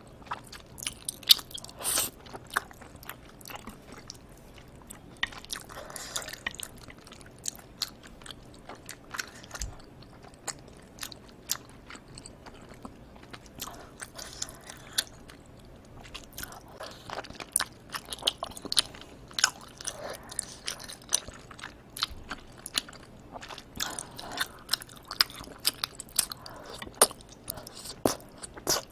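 Close-miked mouth sounds of eating spicy tteokbokki, chewy rice cakes in thick sauce: biting and chewing, heard as a steady run of short, irregular clicks and smacks.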